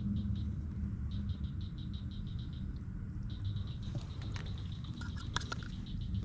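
Rain pattering, over a steady low rumble, with a few sharper clicks in the second half.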